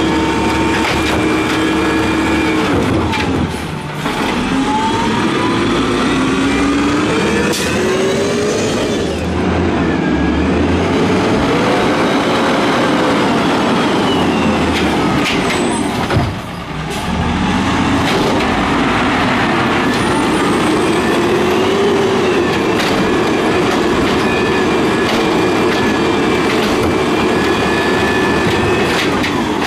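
Peterbilt 320 garbage truck's diesel engine revving hard, its pitch climbing and falling back over and over, with deep drops in the revs about four and sixteen seconds in. A brief sharp sound comes about sixteen seconds in, just as the revs drop.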